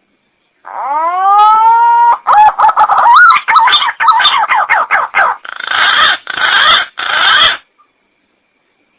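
Green pigeon call: a rising whistle, then a run of quick warbling notes, ending in three harsh, grating notes.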